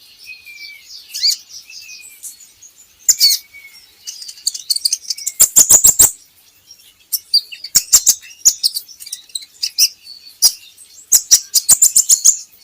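Kolibri ninja (konin) sunbird singing: high, thin chirps and whistles broken by fast twittering runs, in several bursts about two, six, eight and eleven seconds in.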